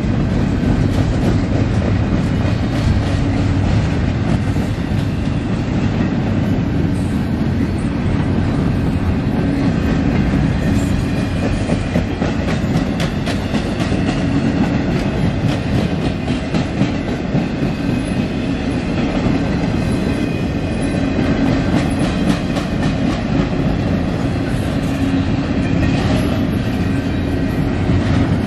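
Double-stack intermodal well cars rolling past: a steady loud rumble of steel wheels on rail, with many sharp clicks and clacks as the wheels cross rail joints.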